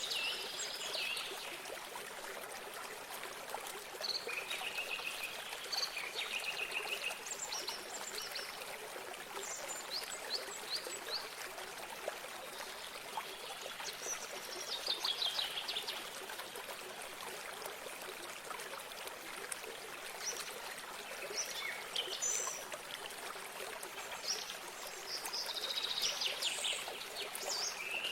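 Water trickling steadily in a small stream or spring, with songbirds singing short, rapid trills and chirps that come back every few seconds.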